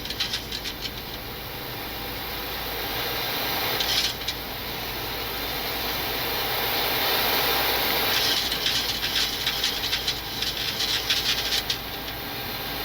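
Steady rushing air noise on a Boeing 737-800 flight deck on final approach with the landing gear down and flaps at 15. Short spells of rapid clicks come about a second in, around four seconds in, and again for several seconds near the end.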